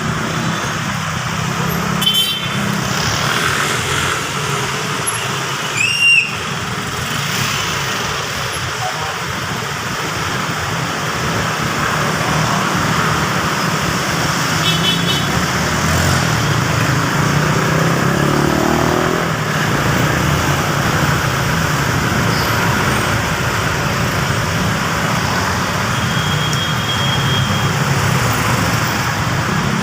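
Congested road traffic: engines running and vehicles creeping past in a steady wash of noise, with a few short high horn beeps scattered through it.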